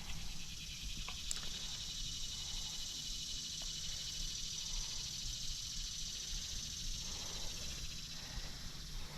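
Steady chorus of insects, a fast-pulsing high buzz that holds level throughout, over a low wind rumble.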